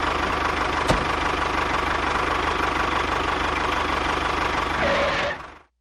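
A small engine or motor running steadily, then dying away over about half a second near the end.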